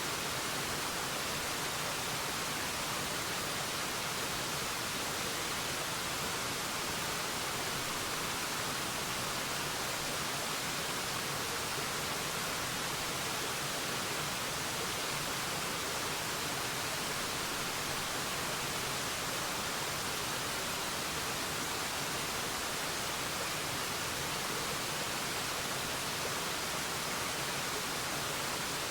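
Waterfall pouring steadily: an even, unbroken rushing hiss of falling water.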